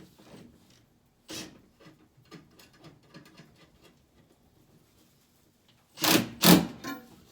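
Work and handling noises from installing an air conditioner indoor unit: faint scrapes and taps, then two loud short knocks in quick succession about six seconds in.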